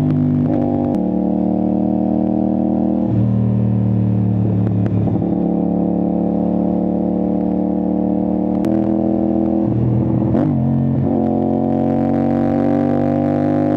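CFMoto 450SR-S parallel-twin engine running through an Austin Racing aftermarket exhaust while riding at speed. The note holds or rises slowly, with several sudden pitch jumps where gears are shifted.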